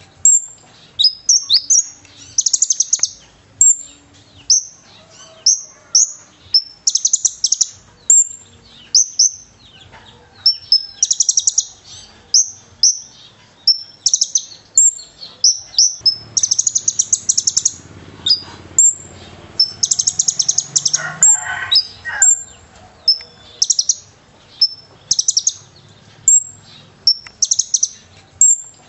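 Kolibri ninja (konin) sunbird singing without pause: very high, thin chirps and fast trills come in short bursts about once a second, in a song filled with cililin phrases. A lower warbled phrase breaks in briefly about three-quarters of the way through.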